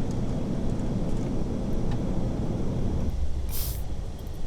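Steady low rumble of airflow and engines heard in the Airbus A380's cockpit during the approach, easing about three seconds in, with a short burst of hiss just after.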